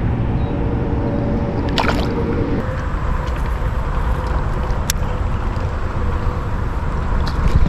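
River water sloshing and gurgling around a kayak, over a steady low rumble, with a couple of sharp clicks about two and five seconds in.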